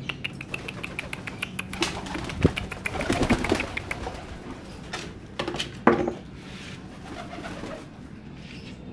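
Domestic pigeons cooing, mixed with rapid clicking and a few louder knocks, the loudest about six seconds in.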